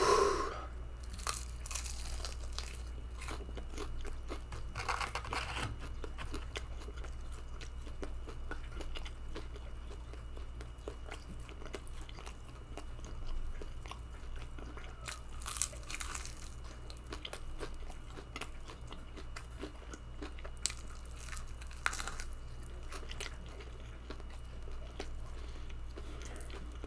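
Close-up eating sounds of a person chewing and biting into breaded fried chicken wings: wet chewing and small crunches in irregular bursts, with a few louder bites.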